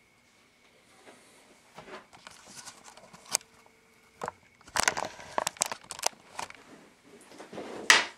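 Handling noise from hands adjusting the String Sight's metal pins and markers on a bowstring: scattered small clicks and rustles, busiest a little past the middle, with one sharp click near the end.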